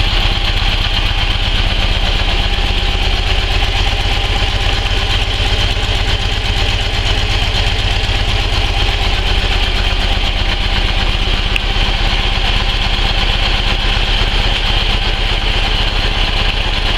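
Flat-twin (boxer) motorcycle engine of a customised Ural/Dnepr-type bike idling steadily, with an even, fast low pulse and no revving.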